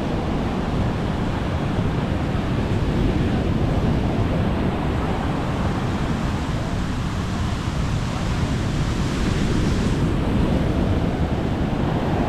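Sea waves breaking and washing up the shore, the wash swelling and easing, with wind rumbling on the microphone.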